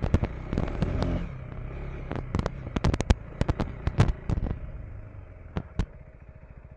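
KTM 390 Enduro R's single-cylinder engine running and then easing off about a second in, under many sharp, irregular cracks and knocks.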